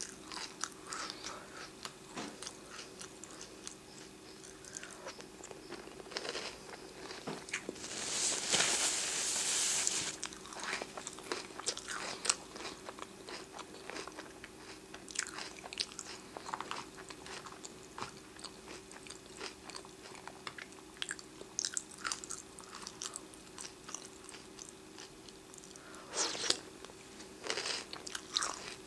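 Close-up chewing of oatmeal squares cereal in milk: repeated crunching bites and mouth sounds throughout, with a louder noisy stretch of a couple of seconds about eight seconds in.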